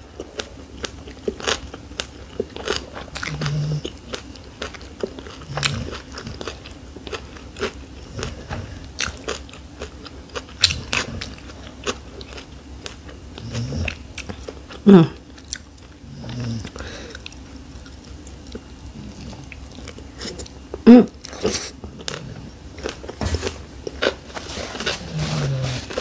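A person chewing and biting a shrimp summer roll: many small wet mouth clicks and crunching of lettuce in rice paper. A few short vocal sounds come in between, the loudest about fifteen and twenty-one seconds in.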